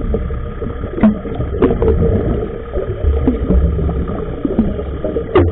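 Muffled underwater sound from a diver's camera housing: a steady low rumble with gurgling and a few sharp clicks, the loudest click near the end.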